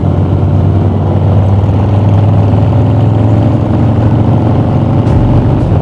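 Harley-Davidson V-twin motorcycle engine running with a steady, deep low rumble as the bike pulls away from a stop.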